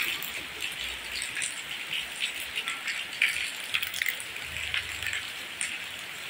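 Rain falling steadily, an even hiss with many close drops ticking and splashing.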